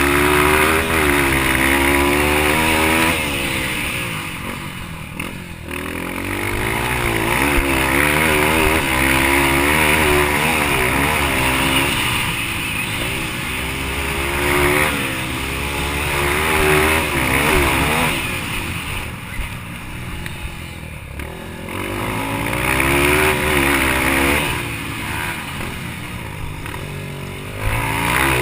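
Yamaha TT-R230 four-stroke single-cylinder motorcycle engine revving hard in a dirt-track race. Its pitch climbs and falls repeatedly as the rider works the throttle and gears, and it eases off several times when the throttle closes.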